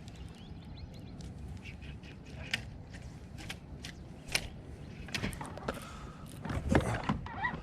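Scattered sharp clicks and knocks in a fishing boat, over a steady low rumble of wind and water. The knocks come more often in the last couple of seconds, while the angler works a bass hooked on a snagged lure.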